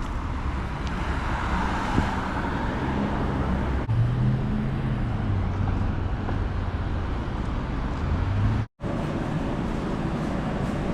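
Street traffic noise, with a motor vehicle's engine running close by, its low hum rising and falling in pitch. The sound cuts out for an instant near the end.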